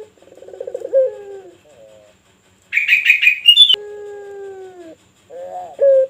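Puter (ringneck turtle-dove) of the pelung type cooing: a rolling, pulsing coo about a second in, a higher rapid trill around three seconds, then a long drawn-out falling note, and another coo near the end.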